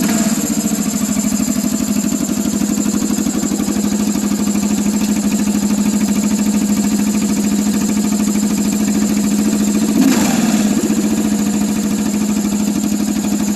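Kawasaki KLR 650's single-cylinder engine idling through an aftermarket Delkevic exhaust, a fast even thumping, with one brief blip of the throttle about ten seconds in.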